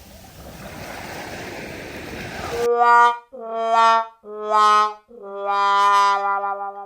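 Surf and wind noise on the microphone, cut off abruptly about two and a half seconds in by four brass notes, the last one held long, like a short trumpet fanfare.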